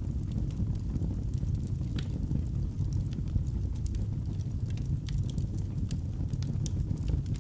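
Wood logs burning in a fireplace: a steady low rumble of the fire with irregular crackles and sharp pops scattered throughout.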